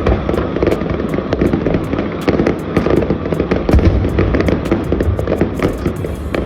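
Fireworks going off in rapid succession: a continuous string of many sharp bangs and crackles, several a second, with no pause.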